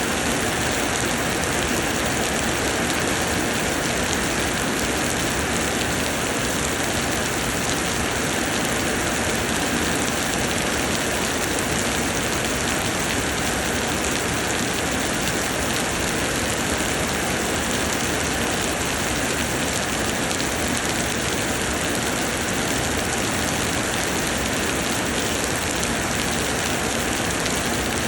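Steady, heavy summer rain pouring down, an even unbroken hiss of rain.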